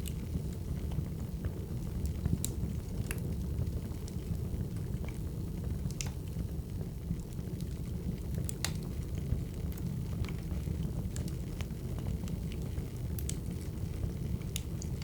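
Crackling wood fire: a steady low rumble of burning logs with scattered sharp pops and snaps, a dozen or so irregularly spaced.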